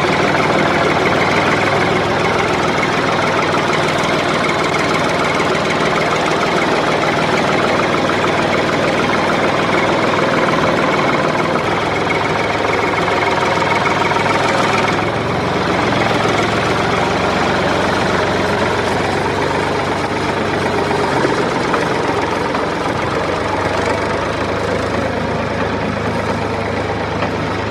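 A small motor running steadily, with no break or change in speed.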